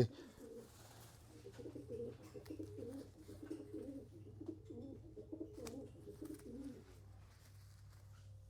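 Racing pigeons cooing: low, wavering calls repeated for several seconds and fading out near the end, over a faint steady low hum.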